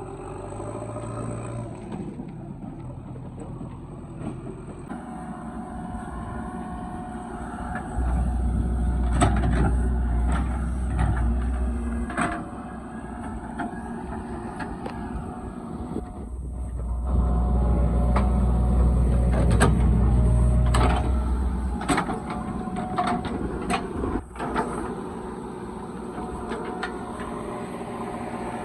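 Diesel engine of a JCB 3DX backhoe loader working, twice getting louder and deeper for about four seconds as it takes load, with scattered knocks and clanks.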